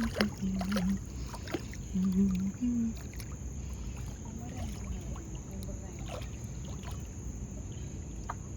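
Outdoor night ambience: a steady high insect trill over a low rumble, with brief snatches of voices in the first three seconds and a few small clicks.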